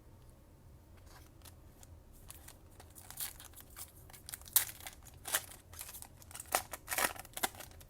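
A trading card pack's wrapper being opened: quiet for the first few seconds, then a run of sharp crinkles and crackles, loudest about four and a half and seven seconds in.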